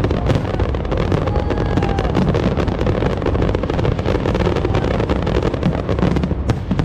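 Fireworks display going off densely: rapid crackling and popping bursts over a continuous low rumble.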